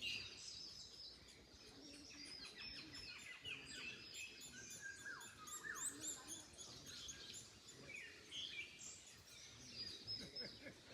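Several small songbirds chirping and singing at once, many short high notes and quick downward-sweeping calls overlapping throughout, over a faint low background rumble.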